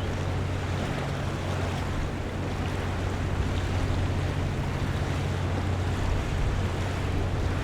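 Harbour-front ambience: a steady wash of water with an even low hum, like a running engine or machinery, underneath throughout.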